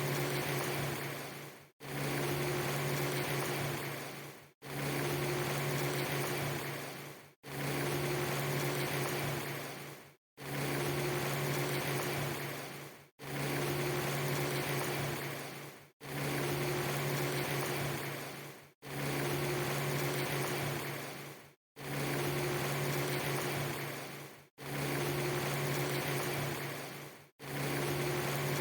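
Steady hissing noise over a low, even hum, in a clip of about three seconds that repeats about ten times. Each repeat starts abruptly, fades toward its end and breaks off in a brief silent gap: a badly joined ambience loop.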